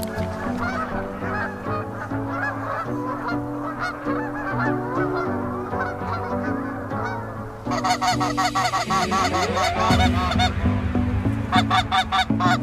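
Canada geese honking, many calls overlapping, growing denser and louder about eight seconds in.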